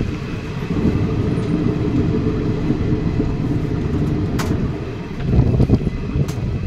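Express passenger train running through a station at speed, heard from an open coach doorway: a steady low rumble of wheels on rail, with two sharp clicks about four and six seconds in.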